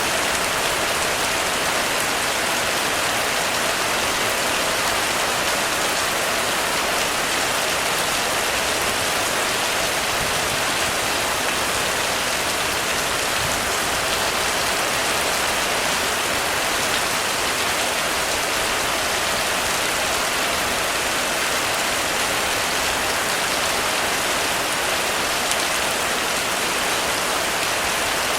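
Heavy rain falling steadily on a roof: an even, unbroken hiss of rain with scattered individual drop hits.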